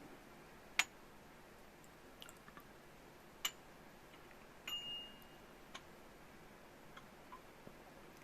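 Light clicks and clinks of tableware handled on a table: four sharp taps spread out, the one about halfway through ringing briefly like ceramic.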